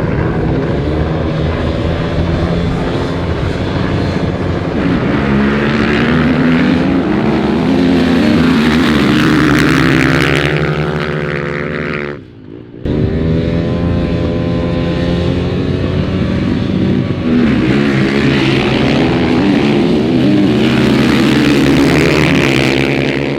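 A vehicle engine running hard under acceleration, its pitch climbing repeatedly. A sudden break about twelve seconds in is followed by a second run of the same climbing engine note.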